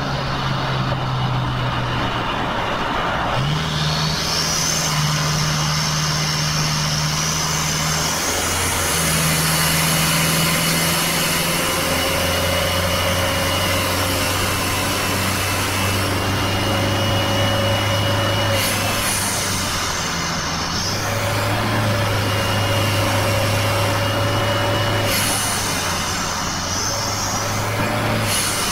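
Toyota 2KD four-cylinder turbodiesel running hard at highway speed, heard inside the cabin with heavy road noise. The engine note shifts in steps, with a thin high whine over it and a rising whistle a few seconds in.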